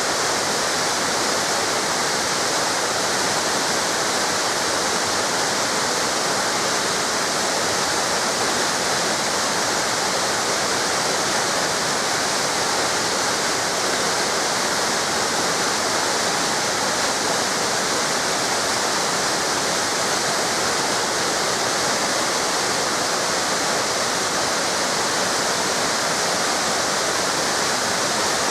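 Waterfall cascades, a steady, even rush of falling water.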